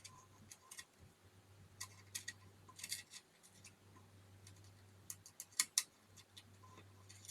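Scattered light clicks and taps from handling small tools or parts at the workbench, some single and some in quick clusters of two or three, the sharpest pair about two-thirds of the way through, over a faint steady low hum.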